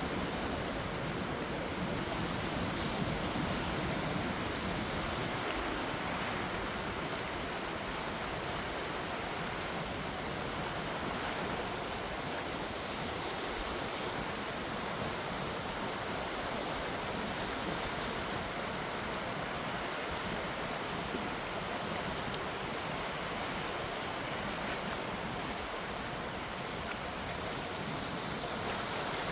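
Calm sea with gentle waves washing, a steady even hiss of water, slightly fuller in the first few seconds.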